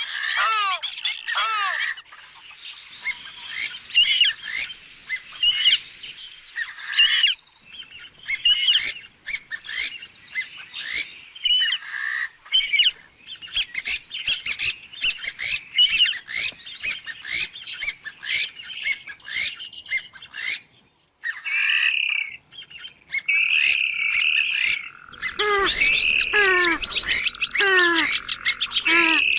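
Purple swamphens calling: a dense run of quick squealing calls, many sweeping downward in pitch, mixed with clicks and cackles. About 25 seconds in, a steady high thin tone starts, along with a lower repeated call.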